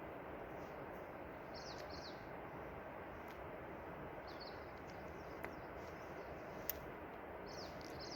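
Steady rushing of water, like a river or waterfall heard from some way off. A small bird chirps over it in short phrases, about three times.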